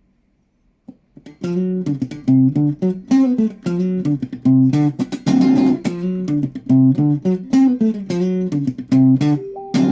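A guitar played through a DOD 440 envelope filter: a riff of short, rhythmic, repeated low notes, starting about a second and a half in after a near-silent opening.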